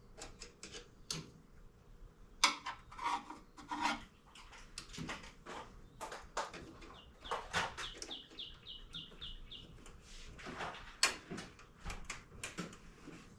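Irregular metal clicks, clinks and knocks of hand tools and small parts being handled in an engine bay, with a quick run of short high chirps, a few notes a second, from about seven seconds in.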